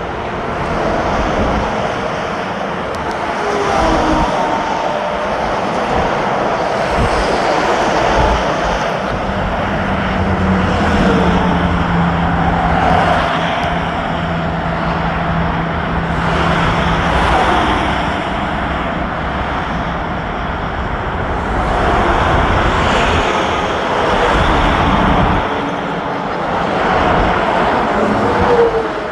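Airplane landing close by: its engines give a continuous rushing noise with a low rumble and shifting whines, and a steady low hum through the middle.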